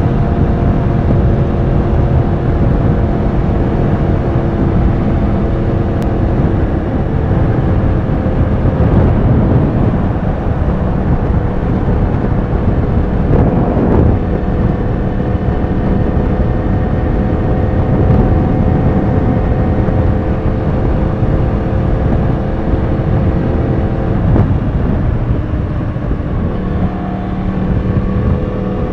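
Yamaha R1 sportbike's inline-four engine running at a steady cruise under heavy wind rush. The engine note fades into the wind for a few seconds around the middle, then holds steady again and shifts briefly near the end.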